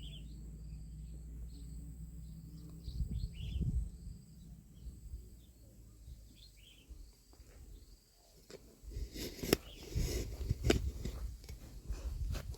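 Small birds chirping over a low rumble, then, about two-thirds of the way in, a run of close rustling and sharp clicks and knocks that becomes the loudest sound.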